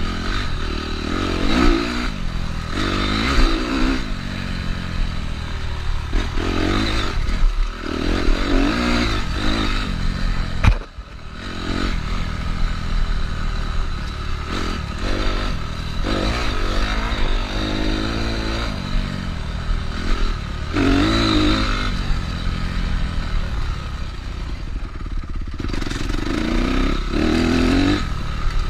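Honda CRF250R's single-cylinder four-stroke engine revving up and down as the bike is ridden, its pitch rising and falling over and over, with clatter alongside. Once, about eleven seconds in, the engine sound drops away briefly before picking up again.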